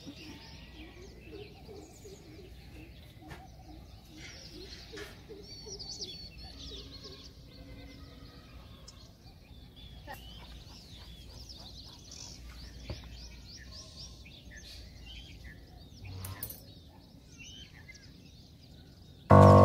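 Faint birds chirping in the background, with a few sharp clicks of a spoon against the pot and mixing bowl. Loud music comes in just before the end.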